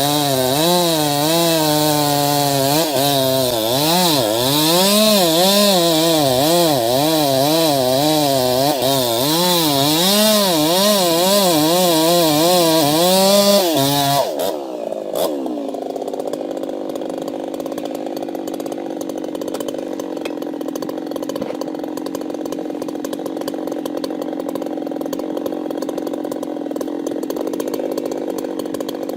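Chainsaw engine running under load, its pitch rising and falling again and again as it cuts. About halfway through it changes suddenly to a quieter, steadier, lower-pitched running.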